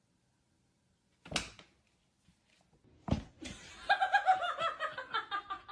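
A person laughing in a quick run of short notes that fall in pitch, after two short knocks.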